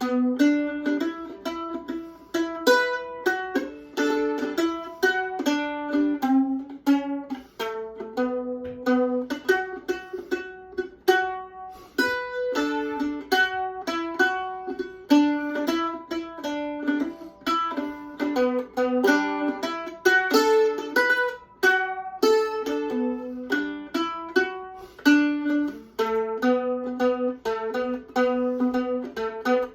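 A small plucked string instrument playing an instrumental tune, a quick run of single picked notes, each ringing briefly.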